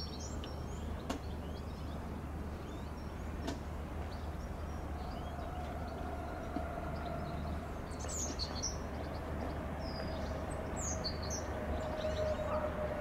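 Small birds chirping repeatedly over a steady low background rumble, with the chirps coming thicker near the end. A faint steady tone comes in about five seconds in and holds.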